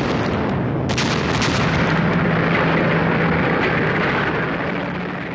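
Artillery barrage: heavy guns firing in a continuous rumble of blasts, with sharp cracks near the start and again about a second in.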